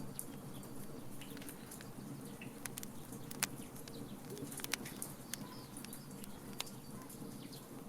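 Wood burning in a fire pit and crackling, with irregular sharp pops over a steady low rush. The loudest pop comes about three and a half seconds in.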